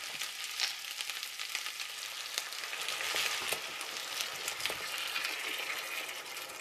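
Minced beef and chorizo sizzling and crackling in hot oil in a frying pan, with white wine poured in from a carton partway through.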